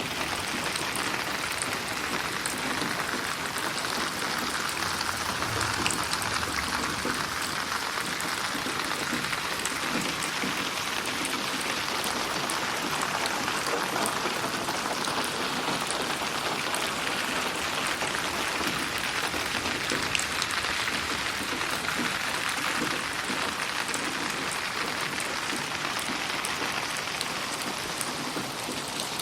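Steady rain falling and pattering on surfaces, a dense even hiss with scattered drop ticks, processed as 8D audio so it pans around the listener.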